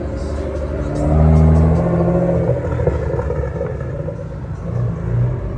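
Vehicle engine revving once, swelling about a second in and easing back, over the steady rumble of idling engines.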